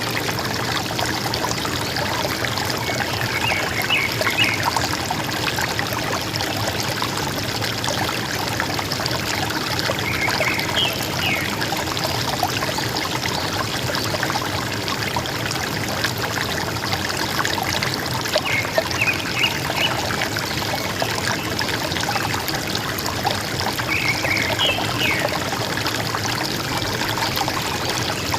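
River water running and gurgling steadily, with a bird giving a short call of a few quick high notes four times, several seconds apart.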